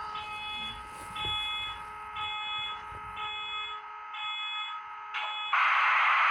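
A steady horn-like chord sounding, with a higher electronic beep repeating about once a second over it. About five and a half seconds in, the chord stops and a loud, steady hiss takes over.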